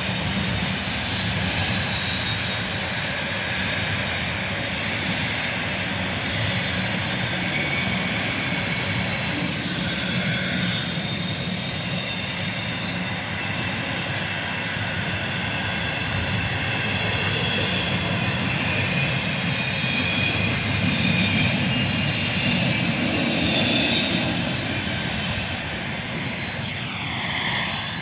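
CSX intermodal freight train's double-stack container cars rolling past: a steady rumble of steel wheels on rail that eases off near the end as the last cars go by.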